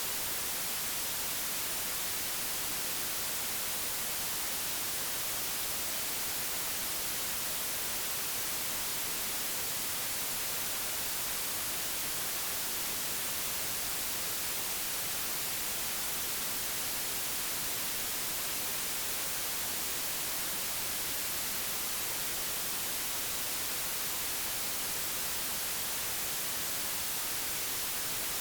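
Digitally generated white noise: a steady, even hiss, unchanging throughout.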